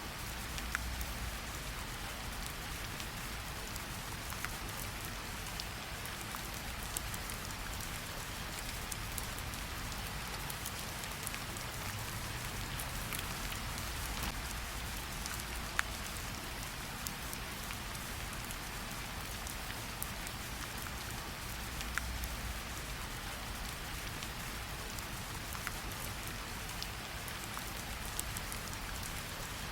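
Steady light rain falling on tree leaves, an even hiss with scattered individual drops ticking sharply as they hit leaves and drip down.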